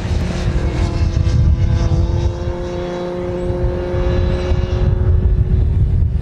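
A motorcycle engine running at steady revs, a droning note that rises slightly in pitch and fades about five seconds in, over a heavy low rumble.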